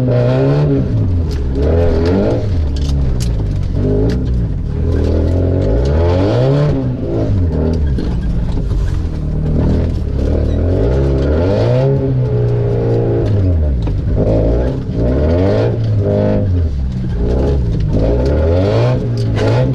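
Opel Frontera engine through a straight-pipe exhaust, driven hard: the revs climb and drop again and again every few seconds, with scattered clattering knocks throughout.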